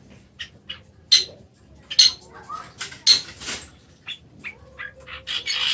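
Oriental magpie-robin (kacer) giving a string of short, sharp, separate call notes, with a longer harsh rasp near the end. These are broken-off notes rather than a flowing song, the stalled ('macet') singing the title names.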